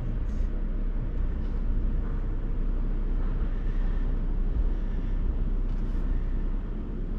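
Steady low rumble of a car running and rolling slowly, heard from inside the cabin.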